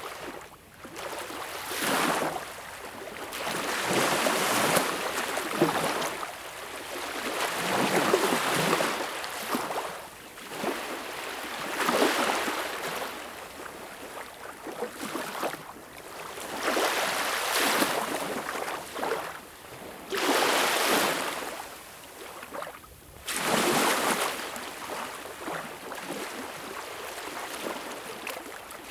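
Sea waves breaking and washing ashore, a rush of surf swelling and falling away every few seconds.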